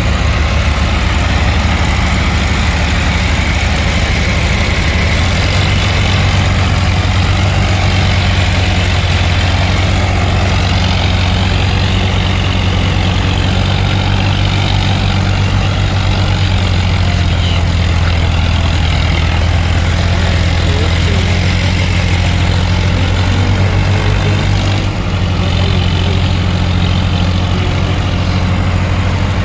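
Tractor diesel engine running steadily and loudly with a deep, even throb, easing slightly about 25 seconds in.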